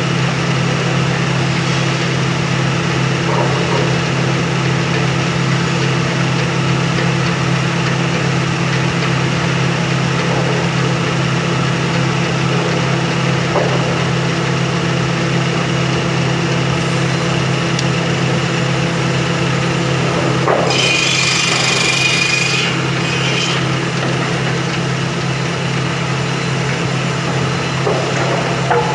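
Sawmill machinery running steadily with a loud, even low hum, with a few faint knocks. About two thirds of the way in comes a harsh, high-pitched burst lasting about three seconds.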